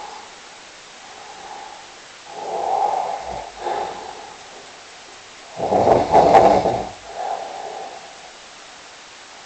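Snoring: a rasping snore about two seconds in and a longer, louder one near the middle, with fainter breaths between.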